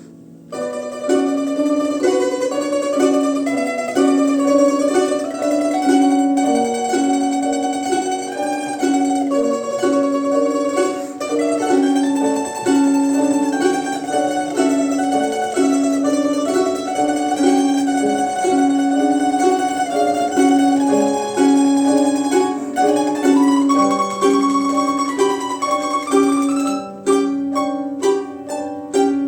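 Quartet of domras playing a melodic ensemble piece, with a tune over a lower accompanying line; the playing picks up again after a brief break about half a second in.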